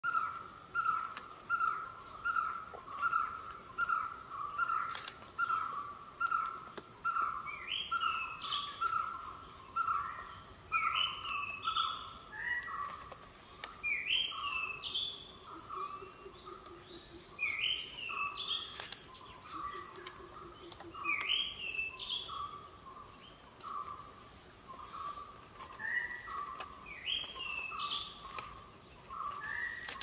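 Birds calling: one repeats a single short note about twice a second throughout, while from about seven seconds in another gives a higher, rising phrase every two to three seconds. A faint steady high hiss runs underneath.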